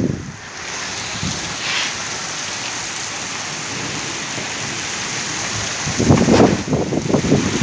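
Heavy rain falling in a steady, dense hiss. About six seconds in, a stretch of choppy low rumbling rises over it.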